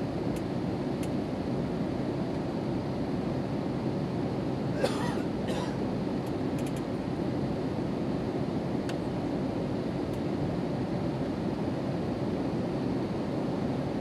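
Steady cabin noise inside an Airbus A320neo: an even rumble of engines and airflow. There is a brief rattle about five seconds in.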